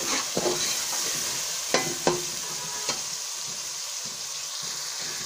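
Chopped tomatoes and onions sizzling in hot oil in a steel pot while they fry down to soften. A steel spoon stirs them, scraping and clinking against the pot a few times.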